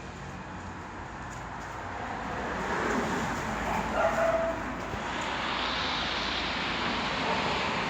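A dog makes a short, high cry about four seconds in, over a steady rushing hiss that grows louder in the second half.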